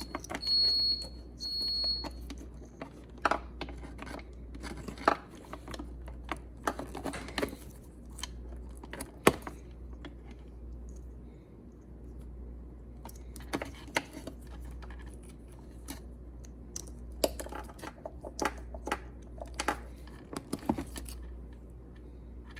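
Scattered clicks, taps and short rustling noises of small parts being handled, over a steady low hum, with a few short high beeps in the first two seconds.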